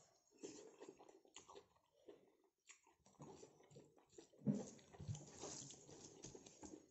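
Faint close-up chewing and mouth sounds of someone eating by hand, with fingers working through rice on the plate; a louder smack about four and a half seconds in.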